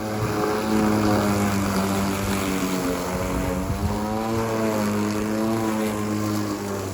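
Gasoline lawn mower engine running steadily, its pitch wavering slightly.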